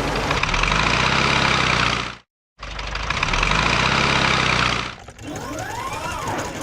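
Cartoon truck engine sound effect running, broken by a brief gap of silence about two seconds in. About five seconds in it gives way to a quieter pitched sound that glides up and down.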